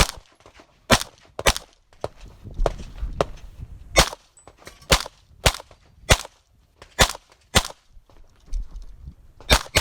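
9mm pistol shots fired during a timed practical-shooting stage: about a dozen sharp shots, mostly in pairs about half a second apart, with short pauses between the pairs.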